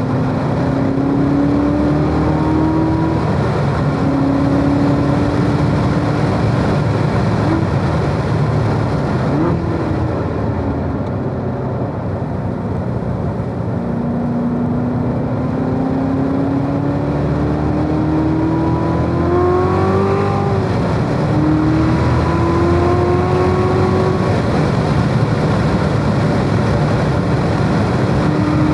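2017 Corvette Z06's supercharged 6.2-litre V8 pulling hard through the gears: the pitch climbs and drops back at each upshift, and eases off about a third of the way in as the car brakes for a corner. Heard from inside the cabin over steady tyre and road noise.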